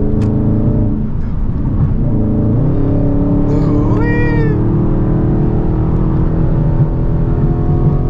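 Straight-piped Dodge Charger Scat Pack's 6.4-litre HEMI V8 under load, its exhaust note stepping up in pitch about two and a half seconds in as the car accelerates through a gap in traffic. About four seconds in a short high wail rises and falls over the engine.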